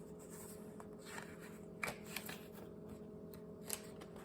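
A paper book page being turned: a few short papery rustles and flicks, the loudest a little under two seconds in, over a low steady hum.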